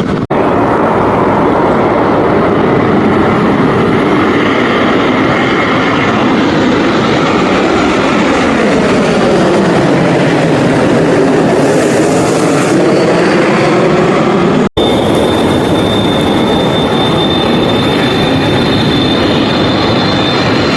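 Loud, steady aircraft engine noise from a plane passing close by, with a slow sweeping rise and fall in tone midway. It cuts out abruptly twice, briefly near the start and again about three-quarters through, after which a steady high whine sits over the noise.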